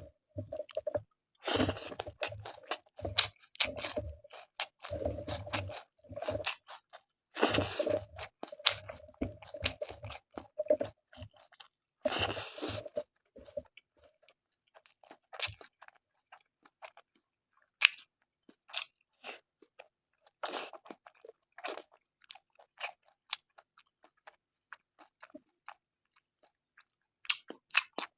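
Close-miked eating of pork curry and rice: chewing and crunching with wet mouth clicks, busy for the first half, then thinning to scattered clicks and smacks.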